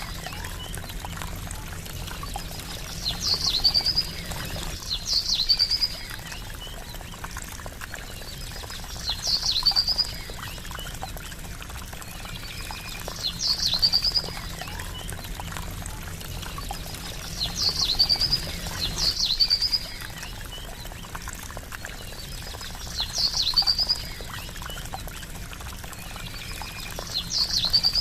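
Water trickling steadily, with a small bird's short, high chirping call repeating every two to four seconds.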